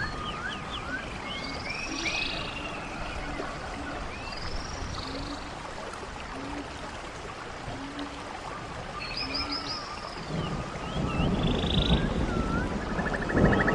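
Running stream with songbirds chirping and whistling over it, and a faint low call repeating about once a second. A low rumble of thunder builds in near the end.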